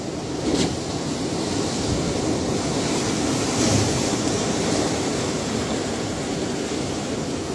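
Ocean waves breaking and washing on shore as a steady surf, with a sharp splash about half a second in and a swell of hiss a few seconds later.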